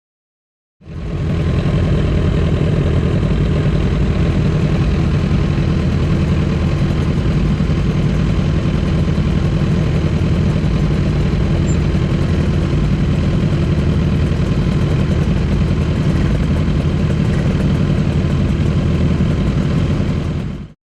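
Motorcycle engine running at a steady speed, fading in about a second in and cutting off shortly before the end.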